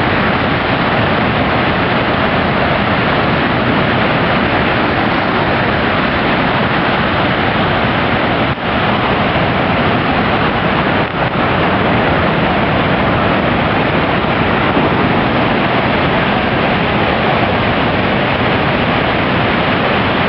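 Connecticut River in flood pouring through below dam floodgates: a loud, steady rush of whitewater. The level dips for a moment twice, about eight and eleven seconds in.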